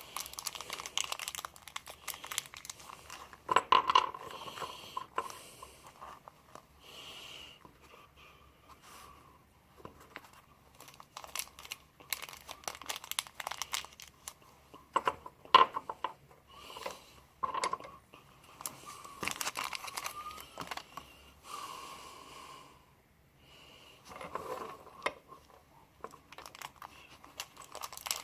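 Small pen kit parts being unpacked and laid out by hand: plastic packaging crinkling and rustling, with scattered small clicks as pieces are set down, and heavy breathing at times.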